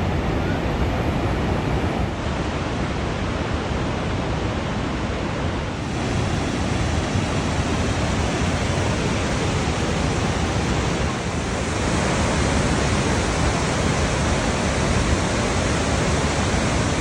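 Iguaçu Falls waterfall roaring: a loud, steady rush of falling water.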